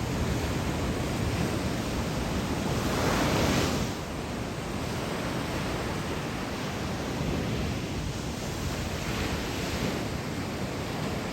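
Surf from typhoon swell breaking on a sandy beach: a continuous rush of waves, with one wave crashing louder about three seconds in.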